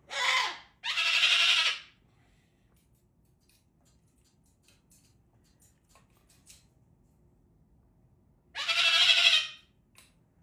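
Pet parrot giving loud, harsh calls: two in quick succession, then one more about eight seconds later.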